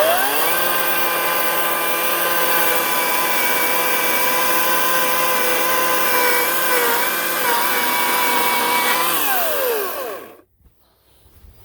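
Ryobi 18-inch electric chainsaw spinning up, running steadily at full speed for about nine seconds with its pitch dipping briefly a few times, then spinning down and stopping when the trigger is released. It is running with grass getting into the chain, which it is not happy with.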